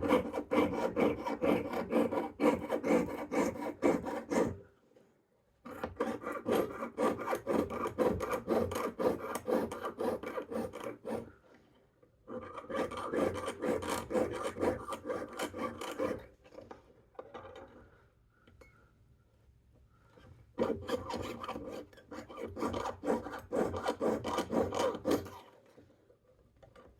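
Jeweller's piercing saw cutting sheet metal with rapid up-and-down strokes, in four bouts with short pauses between them.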